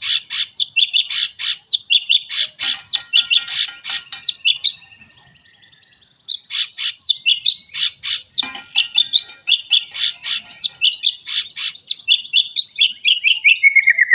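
White-rumped shama (murai batu) singing a long, rapid song of loud whistled and chattering notes. A softer warbling passage comes about five seconds in, then the loud notes resume and end in a falling run.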